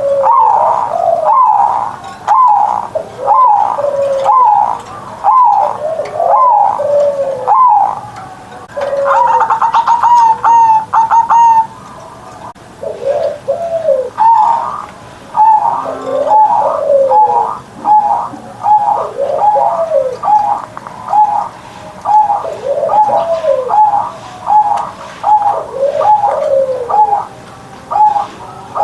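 Zebra dove (perkutut) singing its cooing song, phrase after phrase of rolling, pitch-bending coos with a short pause partway through. About nine seconds in there is a quicker run of short notes.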